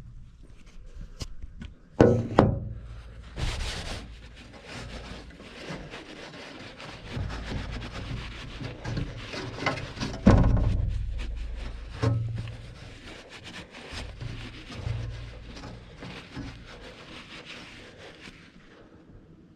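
Irregular knocks, thuds and rubbing of things being handled, with two loud thumps about two and ten seconds in.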